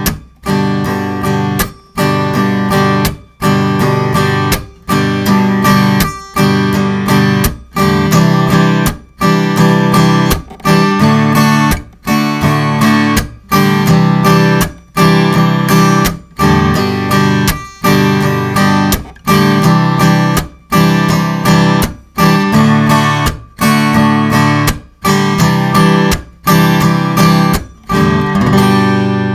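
Hybrid acoustic-electric guitar strummed with a pick in a steady campfire pattern: down, up, a muted percussive 'klack', up. The muted stroke comes from releasing the fretting pressure while the edge of the strumming hand damps the strings. Near the end the strumming stops and the last chord rings out.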